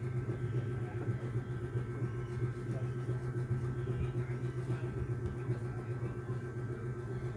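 Steady low hum with faint higher steady tones, like a small machine or electrical equipment running.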